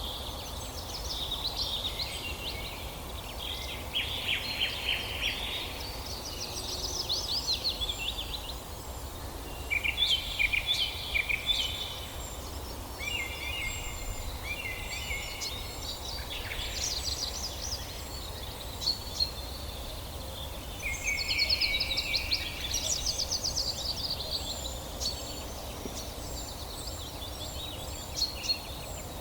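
Songbirds chirping and singing in short trilled phrases a second or two long, one after another, over a steady low background rumble.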